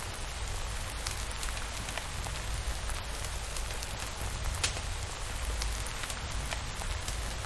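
Steady rainfall, an even hiss with a low rumble underneath, dotted with sharp scattered ticks and one louder tick a little past the middle.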